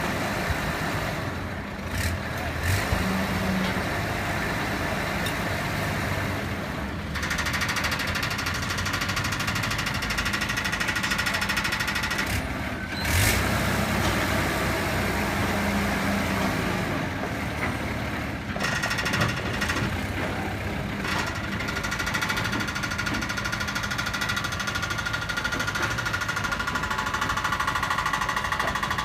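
Work truck engine running steadily during utility-pole removal, with a few sharp knocks about two seconds in and again near the middle.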